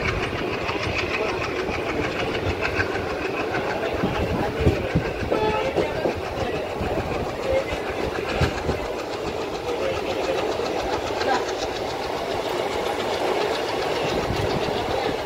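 Train running on the track, heard from on board a moving Indian Railways coach: a steady rumble of wheels on rails with clickety-clack over the rail joints. Near the end, a train of red coaches passes close by on the adjacent track.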